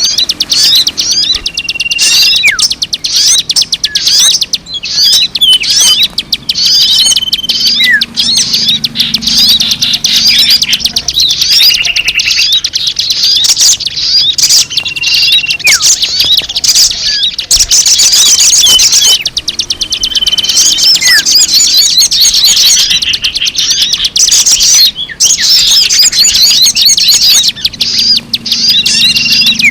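Bird-lure recording of many small birds chirping and chattering densely and rapidly. A short, steady whistled note recurs every few seconds, and now and then a note slurs downward.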